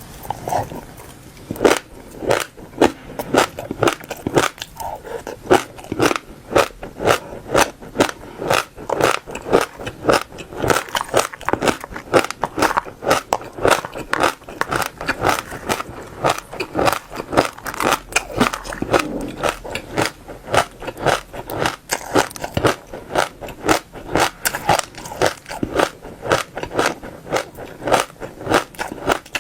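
Crunchy seeds being bitten and chewed close to the microphone: a steady run of crisp cracks, a few a second, as the seeds break between the teeth.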